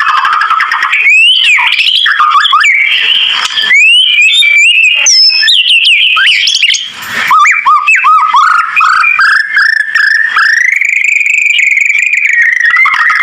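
White-rumped shama (murai batu) song: loud, varied clear whistles with quick up-and-down glides and runs of fast notes. It ends in a long drawn-out whistle that rises and then falls.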